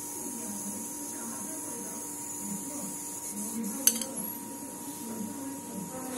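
A steel spoon clinks once against a stainless steel plate about four seconds in, over a steady electrical hum.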